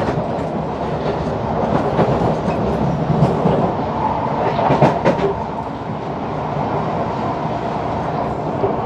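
SMRT C151 metro train running along the track: a steady rumble of wheels on rails with a faint steady whine and a few sharp clicks.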